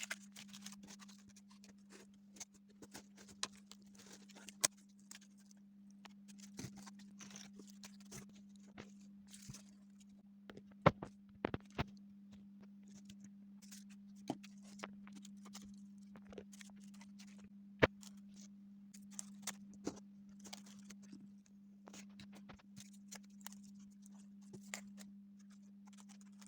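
Faint paper handling: scattered sharp clicks and short crinkling rustles over a steady low electrical hum.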